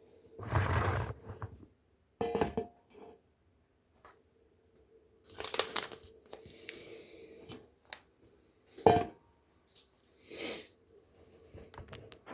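Scattered handling noises of kitchen work on fish: a series of separate scrapes, rustles and clatters, some brief and sharp, the loudest one about nine seconds in.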